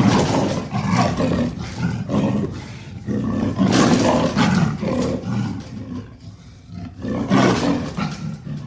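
A large wild animal roaring and growling in a series of rough calls, loudest at the start, about four seconds in and again about seven and a half seconds in.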